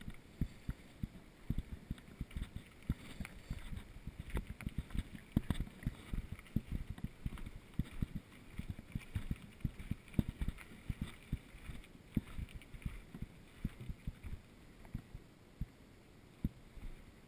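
Mountain bike rolling over rough ground, its frame and parts rattling and knocking in quick, irregular thumps.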